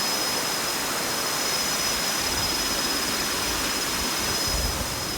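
Waterfall rushing steadily close by, seen from its top edge, with a low rumble near the end.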